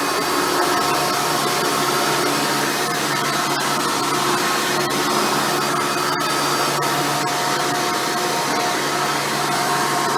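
Hoover Futura Elite upright vacuum cleaner running steadily while vacuuming carpet, a continuous motor hum with faint scattered ticks.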